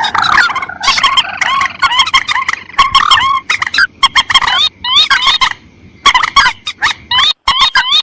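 Bird-lure playback of paddy-field rails, the mandar and tikusan, calling over each other: rapid clucking and short upswept squeaky notes repeated in quick runs, with a sudden break about six seconds in.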